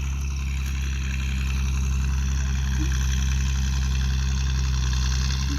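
Tractor engine running steadily with an even low drone.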